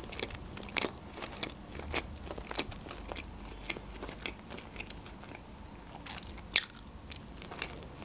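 Close-miked chewing of a mouthful of sushi roll: many short, irregular clicks and crunches from the mouth. One sharper click stands out about six and a half seconds in.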